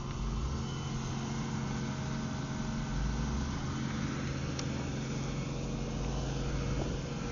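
A vehicle engine running steadily at an even speed, a constant low hum with no change in pitch.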